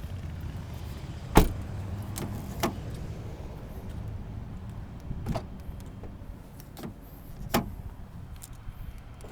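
Power sunroof motor running with a steady low hum that fades after the first few seconds, with about six sharp clicks and knocks; the loudest is about a second and a half in.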